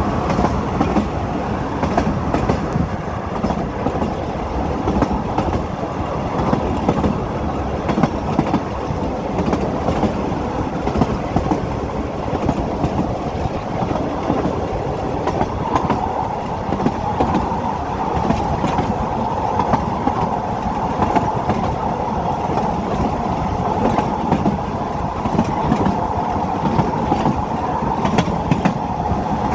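Narrow-gauge Ffestiniog Railway train running along the line: a steady rumble of wheels on the track, with frequent short clicks over the rail joints. A higher-pitched edge comes into the running noise about halfway through.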